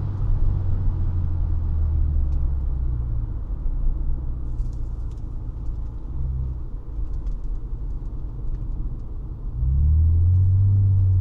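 1999 Honda Legend's 3.5 L V6 engine and exhaust running under way with a low, steady drone. It eases off in the middle, then grows louder about three-quarters of the way through as the car pulls harder.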